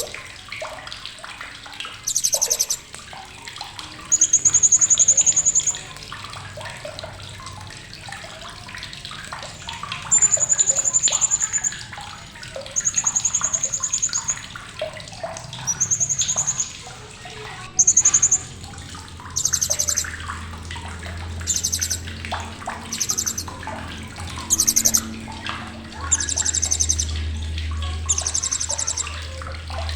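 Blue-crowned hanging parrot (srindit) giving sharp, high-pitched calls, repeated every second or two. Some calls are short held whistles and others are fast trilled bursts. A low steady hum comes in about two-thirds of the way through.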